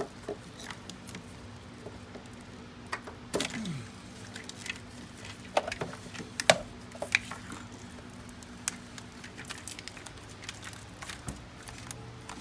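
Scattered light clicks, taps and clinks of hands handling tools and parts, with one short falling squeak about three and a half seconds in, over a faint steady hum.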